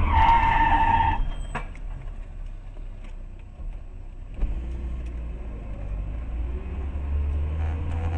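Car engine and road rumble heard from inside the car, with a steady tone that stops about a second in. The rumble jumps louder at about four and a half seconds, and the engine note slowly rises as the car accelerates.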